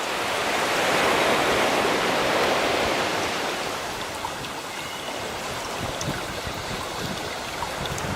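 Sea waves washing ashore: the surf swells to a peak a second or two in and then slowly recedes, with a few faint short bird calls above it.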